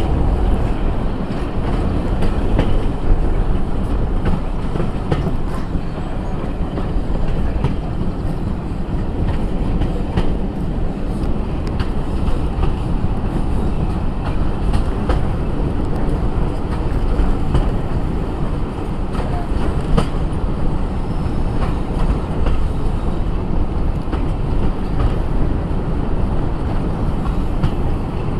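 Passenger train carriage running along the line, heard through an open window: a steady low rumble of wheels on the track with scattered clicks as the wheels pass over rail joints.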